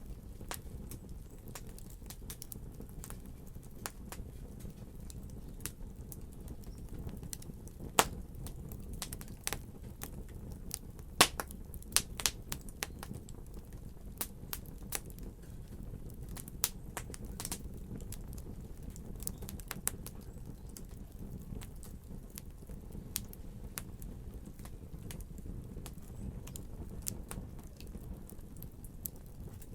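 Wood fire crackling: scattered sharp pops and snaps over a steady low rumble of flames, with a few louder pops about a third of the way in.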